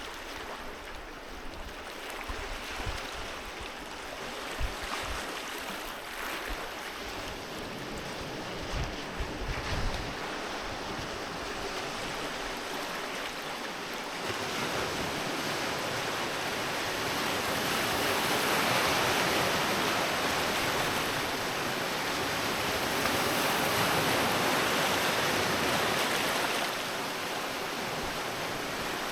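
Sea waves breaking and washing up on the shore, swelling louder twice in the second half. Low wind buffeting on the microphone during the first third.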